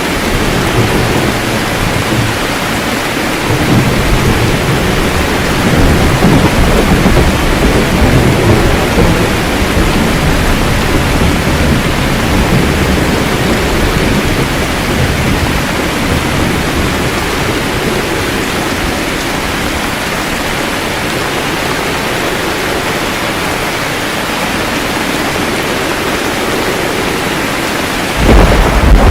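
Steady rain with rolling thunder. A long low roll swells a few seconds in and fades, and a sharper, louder thunder surge begins near the end.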